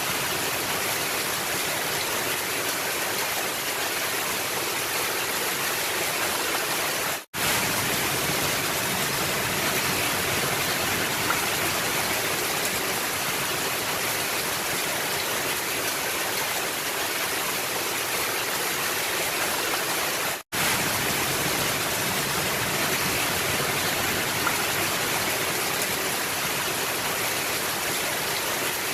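Heavy rain falling steadily on a roof, a dense even hiss, cutting out abruptly for an instant twice.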